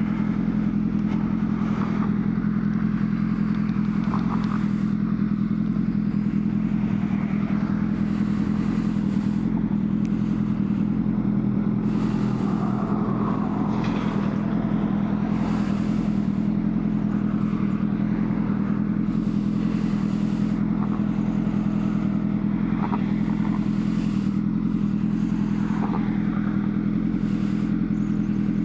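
Honda CBR600RR's inline-four engine running at a steady, unchanging speed, one even tone throughout.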